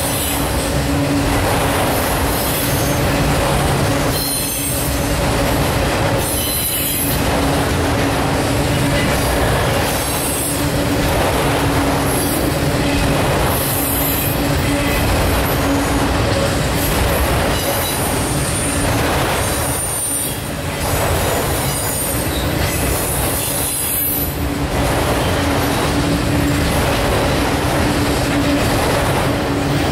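Norfolk Southern autorack freight cars rolling past at close range: a steady, loud rumble of steel wheels on rail with a constant low hum. Intermittent high-pitched wheel squeal comes and goes, and the rumble dips briefly every few seconds.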